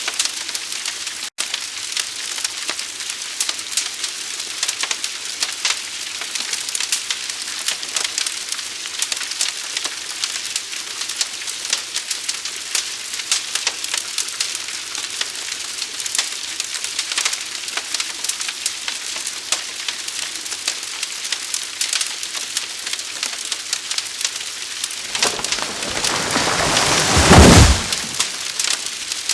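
Fire crackling and hissing: dense, rapid pops over a steady hiss. Near the end a louder rushing surge with a deep rumble swells up over a couple of seconds, then drops off suddenly.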